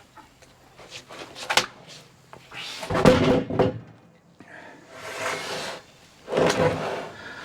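Freshly sawn black walnut slabs being slid off the mill and set down on a stack: several wooden scrapes and knocks, the loudest about three seconds in.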